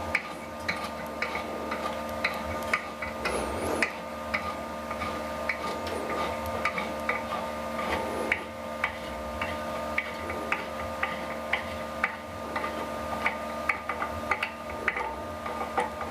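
Irregular sharp clicks and taps of hand tools working on a surface grinder, roughly one or two a second, over a steady electrical hum.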